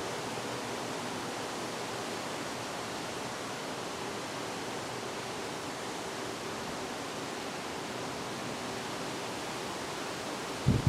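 Wind blowing steadily through trees, an even rushing hiss. Near the end a gust starts buffeting the microphone with a low rumble.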